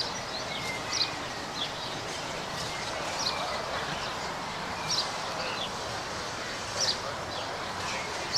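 Birds chirping: short, high, falling notes every second or two over a steady outdoor background noise.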